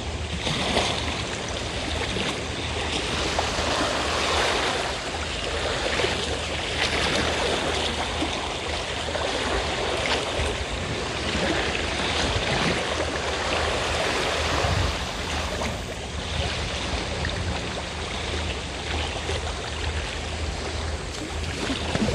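Sea waves washing on the shore, the surf swelling and falling again and again, with a steady low engine hum underneath from a fishing boat.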